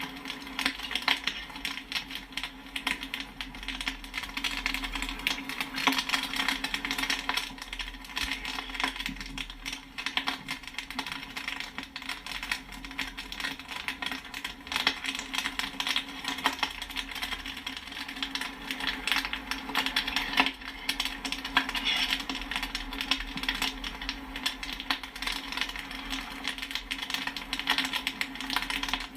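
Popcorn kernels popping and pinging rapidly and continuously, many sharp pops a second, over a steady low hum.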